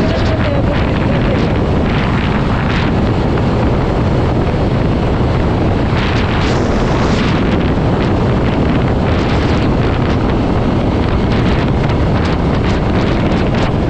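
Wind rushing over the microphone of a motorcycle riding at highway speed: a loud, steady rumble with brief surges several times, around one to three seconds in, six to seven seconds in and again near ten seconds.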